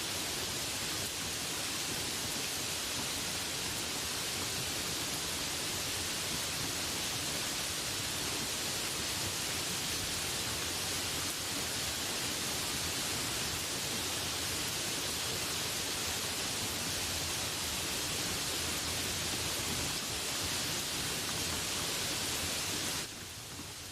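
Steady rain, an even hiss that drops suddenly to a quieter level near the end.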